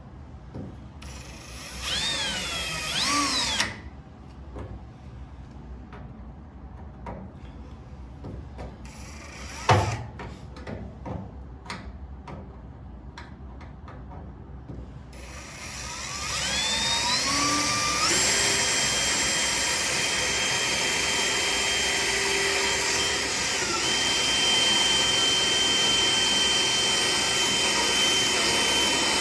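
Power drill drilling out the spot welds on a steel front wing. It runs briefly about two seconds in, and there is a single sharp knock near ten seconds. It then spins up with a rising whine and runs steadily through the rest.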